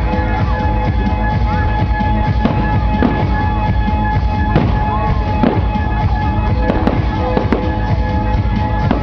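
Fireworks going off with repeated sharp bangs and some whistling, over music that plays throughout.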